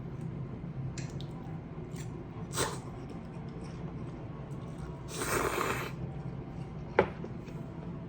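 Eating at the table: a short slurp about two and a half seconds in, a longer slurp just after five seconds, and one sharp click of tableware about seven seconds in, over a low steady hum.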